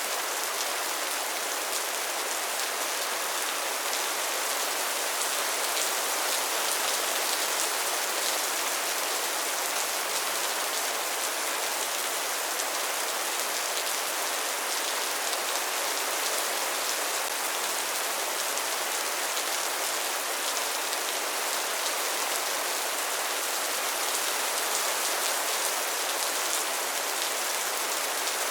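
Steady rain falling and pattering on surfaces, an even hiss with many fine drop ticks and no change in strength.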